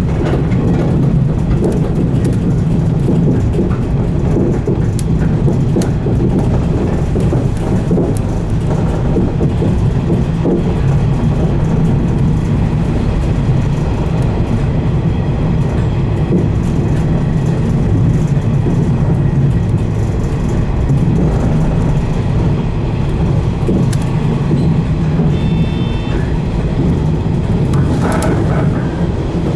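A 115 series electric multiple unit running along the line, heard from inside the front car: a steady rumble of traction motors and wheels on rail. A short high ringing tone comes in near the end.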